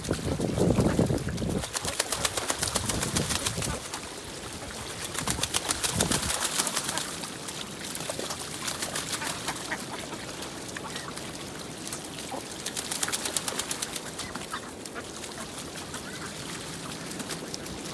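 Ducks quacking on a pond, with stretches of rapid fine crackling splashes from the water. Wind gusts rumble on the microphone about a second in and again around six seconds.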